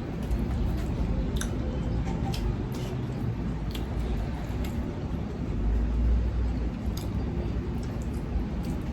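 Close-miked eating: chewing food, with scattered short clicks, over a steady low rumble.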